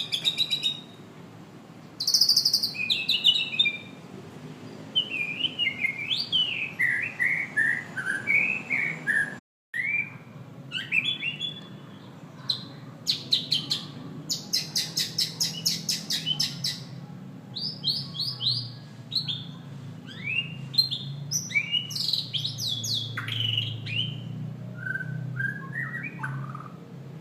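White-rumped shama singing a long, varied song of clear whistled notes, descending runs of notes and fast rattling trills. The song is briefly cut off about nine and a half seconds in.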